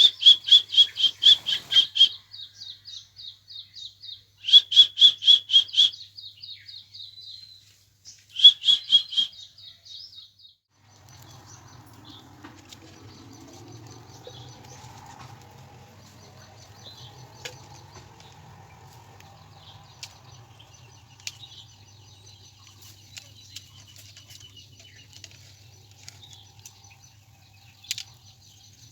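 A pet bird chirping: three bursts of rapid, evenly repeated high chirps, each a couple of seconds long, fading into softer trills. After about ten seconds only a low steady hum remains, with faint chirps and scattered clicks.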